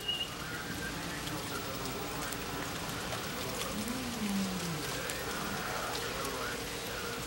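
Steady rain during a thunderstorm, with many small drops ticking on nearby surfaces. A faint low tone slides up and back down about four seconds in.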